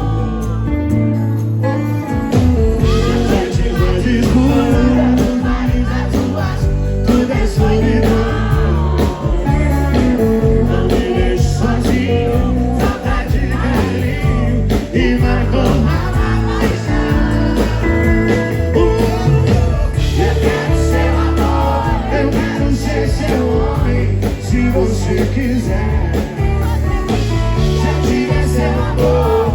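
Live sertanejo band playing, with bass and drums under a sung melody.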